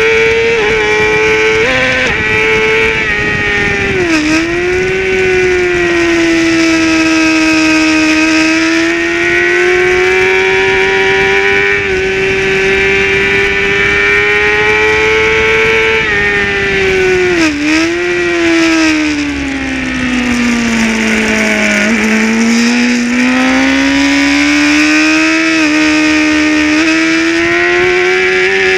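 Racing motorcycle engine at high revs, heard from the bike itself. The note drops sharply at gear changes about 4 and 17 seconds in and climbs again after each. Later the revs sink slowly for a corner and then rise as the bike powers out.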